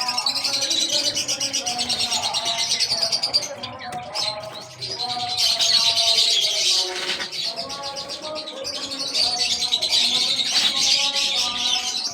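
A mixed flock of small cage birds chirping and tweeting together in a constant dense chatter, easing briefly about four seconds in.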